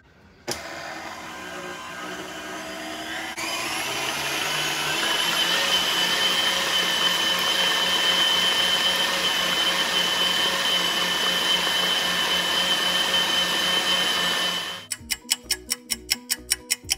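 KitchenAid stand mixer whipping heavy cream with its wire whip attachment. It starts slow and speeds up about three seconds in, then runs steadily with a high whine. About fifteen seconds in it cuts off and plucked music takes over.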